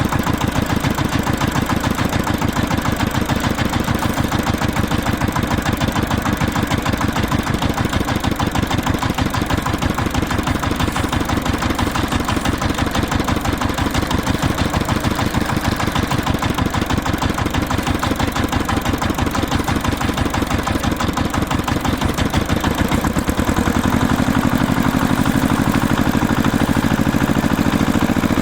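An engine running steadily with a fast, even chugging. About 23 seconds in the note smooths out, and near the end a faint rising whine comes in.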